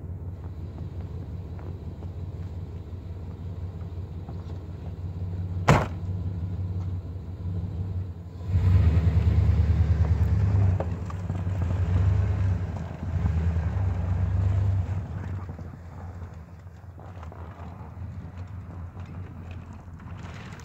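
A vehicle engine running with a low, steady hum as the vehicle is driven off. It grows louder for about six seconds from a little past the middle, then drops back. One sharp click comes about six seconds in.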